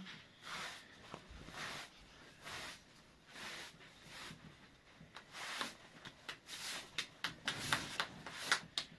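Soft rubbing or scraping strokes by hand, about one a second, that come faster and stronger in the last few seconds.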